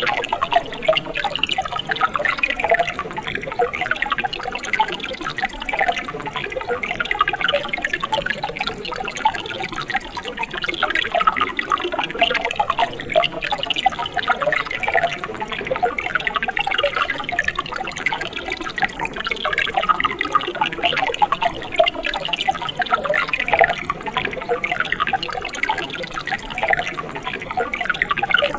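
Mountain stream babbling over rocks: a steady flow with a dense run of small bubbling splashes.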